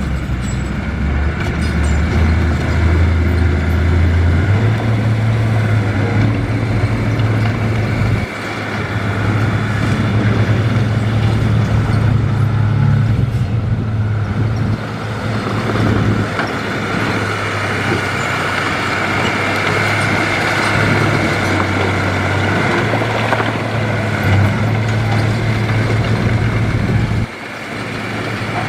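Heavy diesel earthmoving machinery running steadily with a low engine hum. The sound dips briefly about a third of the way through and again near the end.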